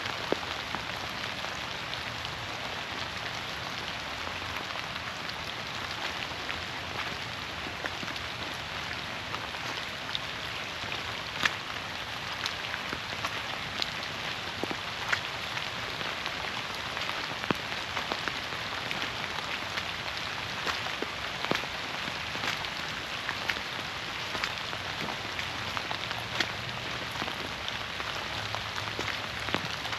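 Steady rain falling through the forest canopy, an even hiss with single drops striking close by every few seconds as sharp ticks.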